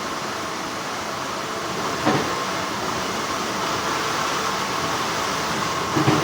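Steady, continuous hum of textile factory machinery. Two brief louder handling sounds come about two seconds in and again near the end.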